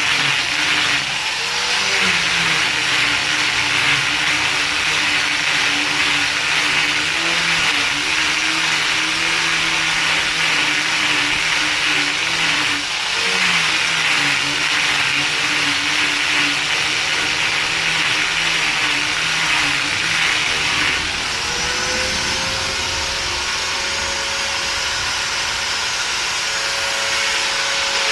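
An electric motor running without pause, its pitch wavering slightly as the load changes, over a loud hiss. About three-quarters of the way through, the hiss drops and the motor settles onto a higher, steadier tone.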